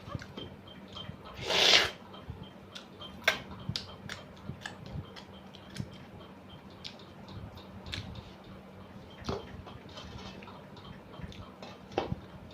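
Close-up eating sounds of someone eating rice with dal and mushroom: wet chewing and frequent small mouth clicks and smacks, with one short loud rush of noise about a second and a half in. A faint steady hum sits underneath.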